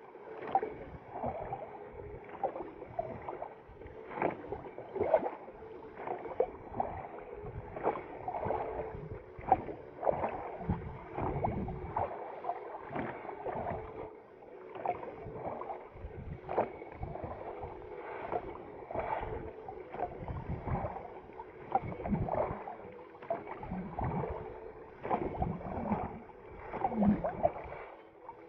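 A boat being rowed or paddled on a river: a splash and drip of water with each stroke, roughly once a second.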